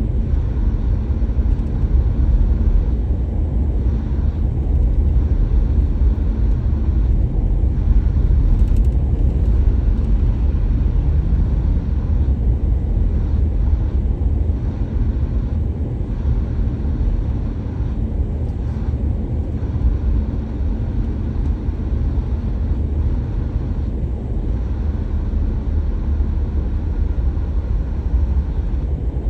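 A car driving at steady speed, its road and engine noise a continuous low rumble.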